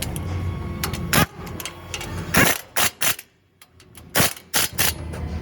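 A low steady rumble, then a series of about seven sharp knocks and clicks, unevenly spaced, with a brief lull in the middle.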